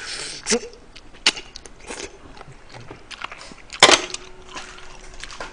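Close-miked biting and chewing on a braised chicken drumstick, with scattered sharp clicks. About four seconds in comes a loud knock, followed by a faint ringing tone.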